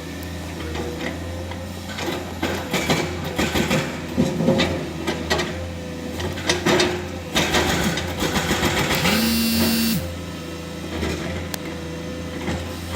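Excavator working rock: the diesel engine runs steadily under irregular clanks and scrapes of the bucket against stone. About nine seconds in, a steady pitched whine sounds for about a second.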